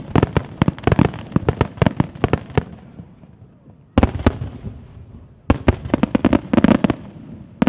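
Aerial fireworks shells bursting in quick volleys of sharp bangs, with a single big bang about four seconds in, followed by another rapid flurry of reports.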